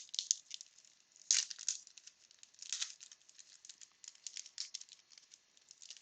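Wax-paper baseball card pack wrapper crinkling as it is handled and worked open, a run of irregular dry crackles, sharpest just at the start and about a second in.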